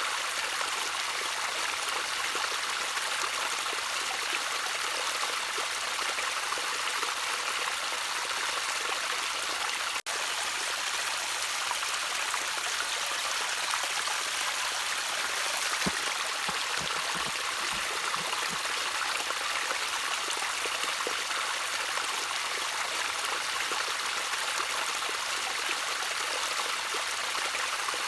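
Water trickling steadily in a stream: an even splashing hiss with no pauses, except one momentary dropout about ten seconds in.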